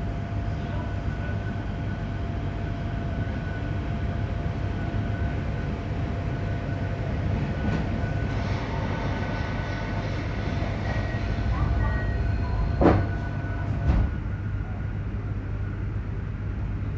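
Interior running sound of a JR Hokkaido 731 series electric multiple unit, car MoHa 731-109, moving at steady speed: a steady low roar with faint steady whine tones. The uploader takes the roar, like an old nose-suspended traction motor, for an abnormal noise from the motor on the Otaru-end bogie. Two sharp knocks about a second apart come roughly three-quarters of the way through.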